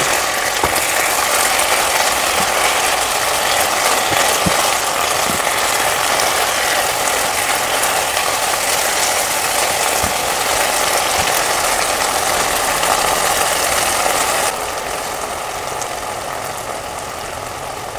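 Water spinach and chicken sizzling and crackling in a hot nonstick pan while being stirred with a silicone spatula. About three-quarters of the way through the stirring stops and the sizzle settles to a quieter, duller hiss.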